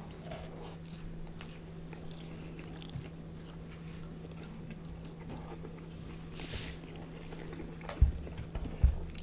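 Close-miked eating sounds: chewing and biting food, with soft wet mouth clicks over a steady low hum. There is a brief hiss about six and a half seconds in and two low thumps near the end.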